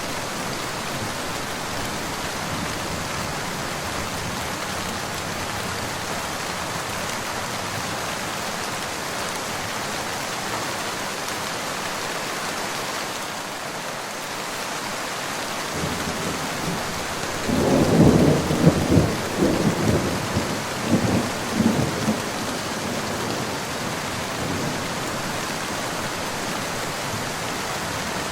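Steady rain falling, with a roll of thunder about two-thirds of the way in that rumbles in several peaks for about four seconds before fading back into the rain.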